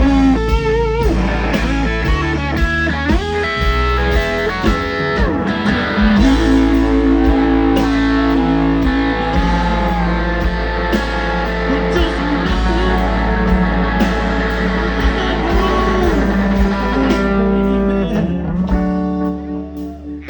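Live blues band playing a slow instrumental passage: an electric guitar lead with bent, sustained notes over bass guitar and drums. The music drops quieter near the end.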